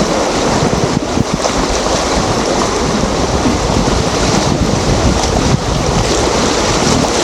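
Loud, steady rush of river water, with wind buffeting the microphone in a low rumble.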